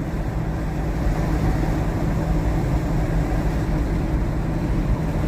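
Steady engine hum and tyre road noise heard from inside a moving car's cabin.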